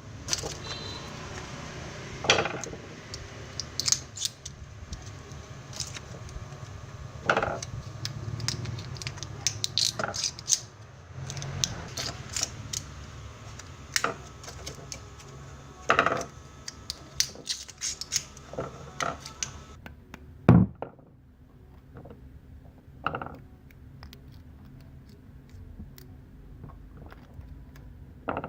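Metal parts being handled and worked: scattered knocks and metallic clinks, irregular throughout, over a low steady hum that stops about two-thirds of the way through.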